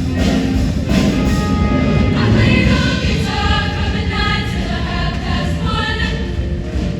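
Show choir singing in full voice over loud backing music, the voices strongest from about two seconds in.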